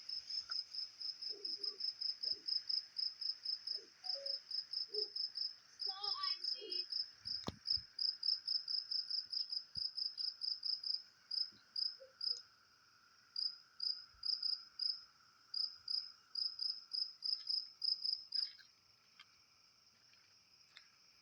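A cricket chirping in a steady, high-pitched pulse, about four to five chirps a second, stopping a few seconds before the end. A single sharp click is heard about seven seconds in.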